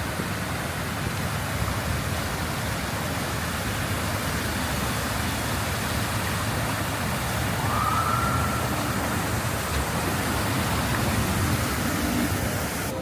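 Steady hiss and rumble of city street traffic, with a short high tone about eight seconds in.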